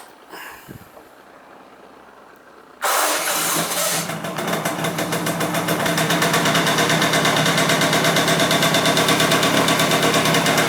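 1985 Honda Spree's 49 cc two-stroke single-cylinder engine starting from cold: it catches suddenly about three seconds in and then runs steadily at idle with a fast, even pulse.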